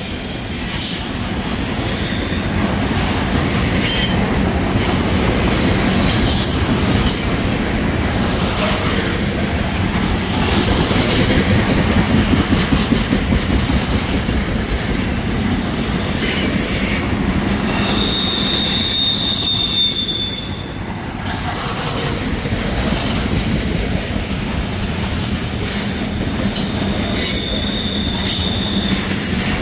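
Freight cars loaded with trash containers rolling past close by, with a steady rumble and clatter of wheels on the rails. High-pitched wheel squeal rings out briefly about two-thirds of the way through and again near the end.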